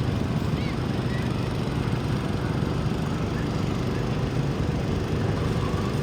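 Garden tractor engine running steadily, a low rumble with a fast even pulse.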